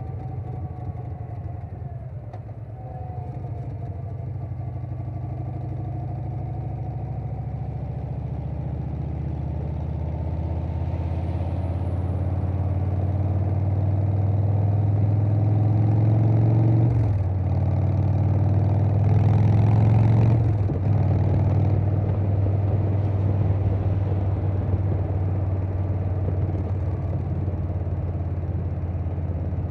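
2020 Harley-Davidson Softail Standard's Milwaukee-Eight V-twin running through a Vance & Hines Big Radius 2-into-2 exhaust under way, pitch and loudness climbing slowly as it accelerates. Two brief dips in the engine note near two-thirds through mark gear shifts, after which it settles into a steady cruise.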